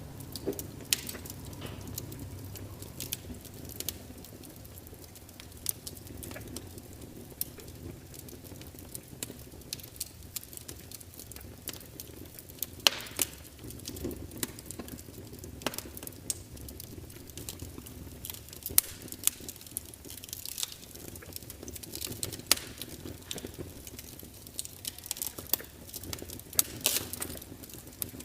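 Log fire crackling, with irregular sharp pops and snaps of burning wood over a low, steady background.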